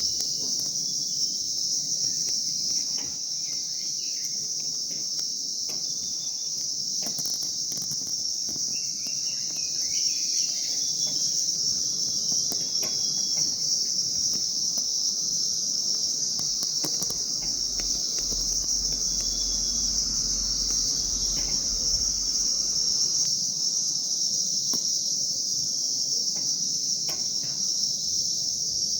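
Steady, unbroken high-pitched insect chorus, with a few faint bird chirps here and there.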